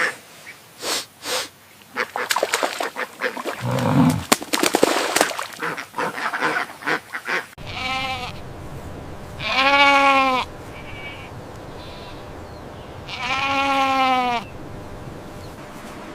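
A jumble of short clicks and rustles, then three wavering goat bleats: a short one, then two long ones.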